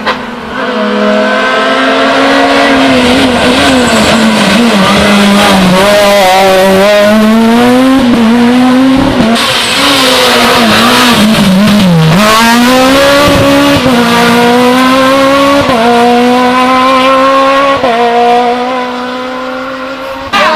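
A rally car's engine at high revs, driven hard through a stage. Its pitch climbs, drops and steps with gear changes, with a deep dip in revs about twelve seconds in, and a spell of tyre noise around the middle.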